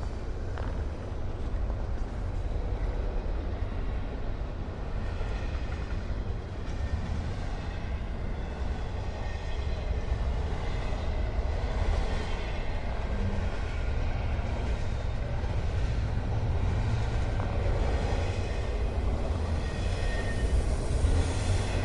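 Train running along the track: a steady low rumble that grows a little louder toward the end.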